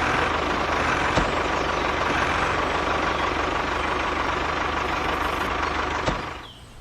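An engine running steadily at idle, with an even low throb, fading out near the end.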